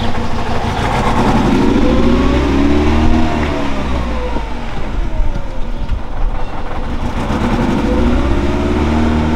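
Mercedes-Benz ML 230's 2.3-litre four-cylinder petrol engine revved twice from idle, each time climbing slowly and falling back.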